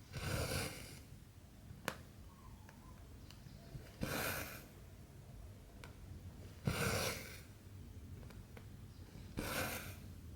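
Cotton embroidery thread pulled through 14-count cross-stitch fabric: four short swishes, each about three seconds apart, with one sharp tick of the needle near two seconds in.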